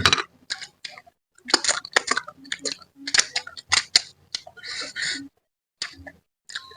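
Close-up eating sounds from a person chewing a spicy fish-head dish, in short irregular bursts of wet mouth noise with a brief pause about five seconds in.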